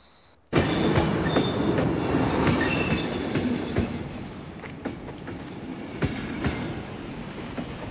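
Train running close by: a loud rush of rolling wheels on the rails cutting in suddenly about half a second in, with scattered clicks and brief high wheel squeals in the first few seconds, easing a little after that.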